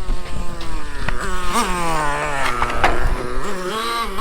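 Traxxas T-Maxx 3.3 RC monster truck's small nitro engine running with a high buzz. It gives a short throttle blip about a second and a half in, then winds down in pitch as the truck slows, and picks up again near the end. There are a couple of sharp knocks around the third second.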